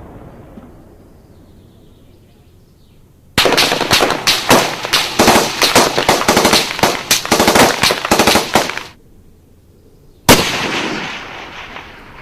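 Gunfire sound effect: a rapid burst of automatic fire lasting about five seconds, then after a short pause a single loud shot with a long echoing tail.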